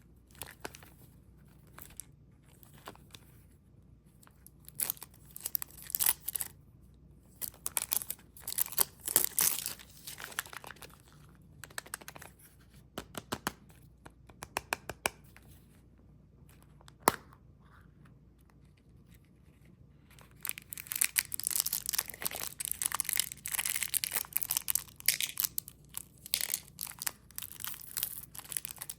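Candy wrappers and packaging being torn open and crinkled by hand, in irregular spells, with a single sharp click partway through, then steady crinkling for the last third.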